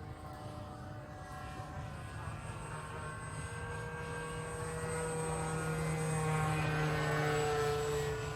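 Homemade radio-controlled Cessna model plane's motor and propeller running in flight, a steady whine that grows louder as the plane comes close, is loudest about seven seconds in, then drops slightly in pitch and fades near the end. Wind rumbles on the microphone underneath.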